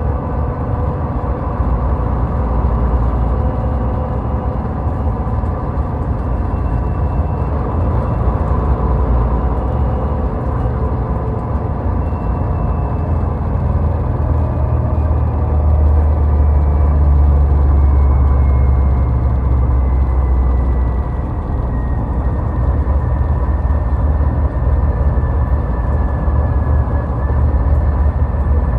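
Car driving on a highway: a steady rumble of engine and tyres on the road, heaviest in the bass and swelling for a few seconds in the middle, with a faint whine that slowly falls in pitch.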